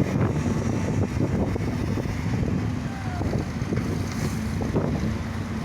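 Excavator's diesel engine running steadily, with scattered knocks and rattles.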